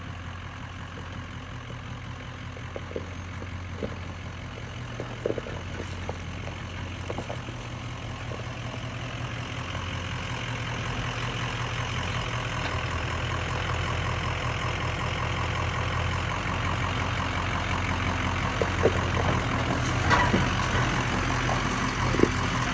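Ford F-250's 6.0 Powerstroke V8 turbodiesel running steadily at low speed as the truck creeps down a dirt trail hill, slowly growing louder, with a few faint knocks.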